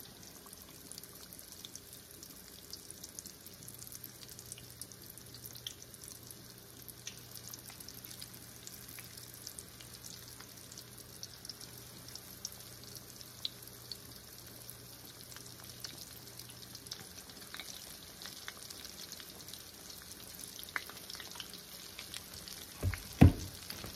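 Battered chicken pieces deep-frying in a pan of hot oil: a steady crackling sizzle, with a sharp knock near the end.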